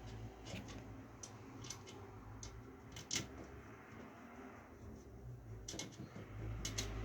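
Scattered light clicks and taps from small parts being handled during a PC build, the sharpest about three seconds in and a quick pair near the end, over a low steady hum that gets louder near the end.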